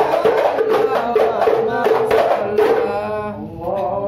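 Hadrah Ishari ensemble: hand-struck frame drums beating a steady rhythm under group chanting of sholawat. Near the end the drumming stops, leaving one voice holding a long, wavering sung line.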